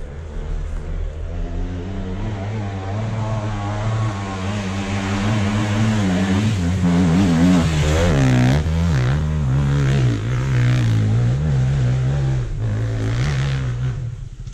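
Enduro dirt bike engine revving hard under load on a steep hill climb, its pitch rising and falling as the throttle is worked; loudest about halfway through, and it stops abruptly near the end.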